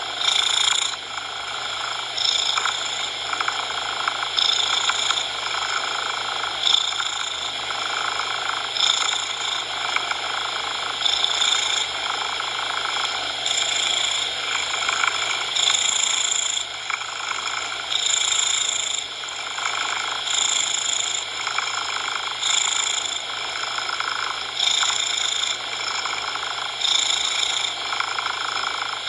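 A cat purring, its purr swelling and easing about every two seconds with each breath, layered over steady synthetic coloured noise.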